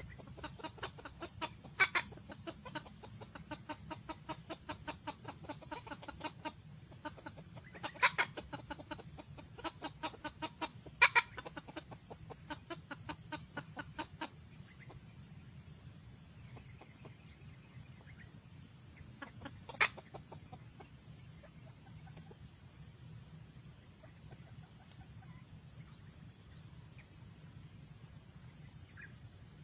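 Junglefowl clucking: a rapid run of soft, evenly spaced clucks for about fourteen seconds, with a few louder, sharper calls among them and one more about twenty seconds in. Insects drone steadily at a high pitch throughout.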